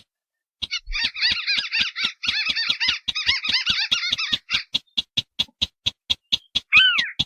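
Recorded calls of wetland crakes, white-browed crake mixed with another rail: a steady series of sharp ticks about five a second, a fast chattering run of repeated arched notes from about one second in to the middle, and a short falling call near the end.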